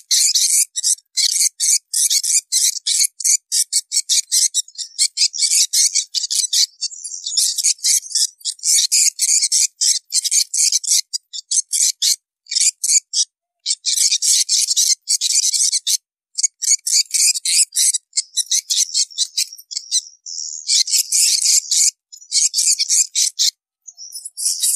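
Swiftlets twittering: a dense stream of very rapid, high-pitched chirps in long bursts with a few brief pauses. This is a swiftlet lure call of the kind played at a nest house to draw birds in.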